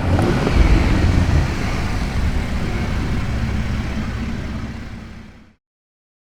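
Toyota A90 Supra RZ's turbocharged 3.0-litre straight-six running as the car drives, a steady low rumble that fades away and ends about five and a half seconds in.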